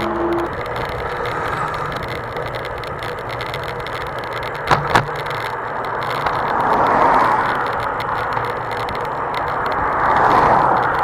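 Riding a mountain bike into a headwind: wind buffeting the microphone over the hiss and rattle of tyres on a dirt road, swelling twice in gusts, with two sharp clicks about five seconds in.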